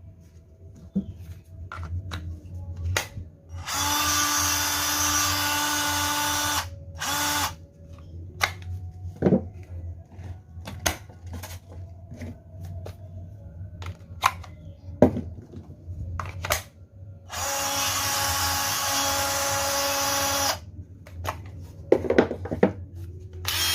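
Maktec MT081 cordless drill motor running at a steady speed for about three seconds, then a brief blip, and a second three-second run in the second half. Clicks and knocks of the drill being handled fall between the runs.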